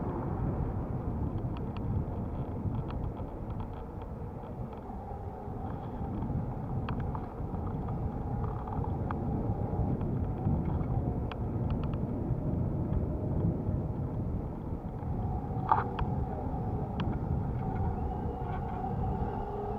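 Wind and road rumble on the microphone of a moving electric bicycle, with scattered light rattling clicks and a faint whine that rises near the end.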